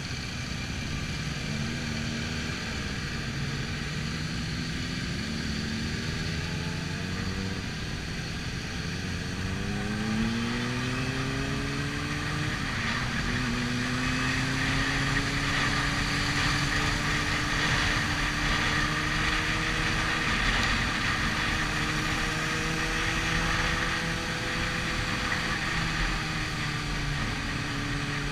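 Onboard sound of a sport motorcycle's engine, cruising at first, then accelerating with a rising pitch and one gear change about halfway through, before holding a steady pace. Wind hiss builds as speed picks up.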